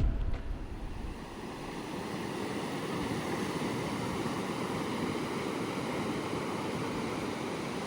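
Steady wash of ocean surf breaking on the shore. Background music fades out in the first second.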